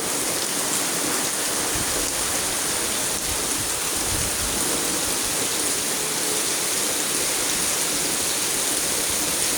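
Steady heavy rain falling and pattering on surfaces, an even hiss throughout.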